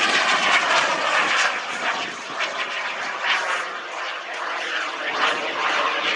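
SubSonex JSX-2 microjet's small turbojet engine flying past during aerobatics. Its whine falls in pitch in the first second as the jet passes, loudest there, then continues as a steady rushing jet noise.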